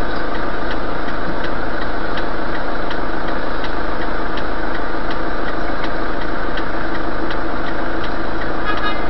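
Car engine running steadily, with a light regular ticking about twice a second.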